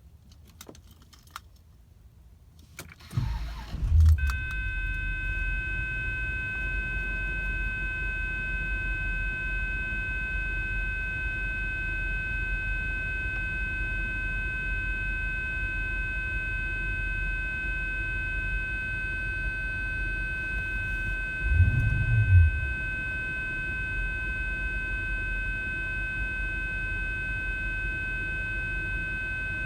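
Bentley Arnage V8 cold start: a few clicks, then the starter cranks about three seconds in and the engine catches with a loud burst. It settles to a steady idle with a steady high whine over it, and the revs rise briefly about two-thirds of the way through.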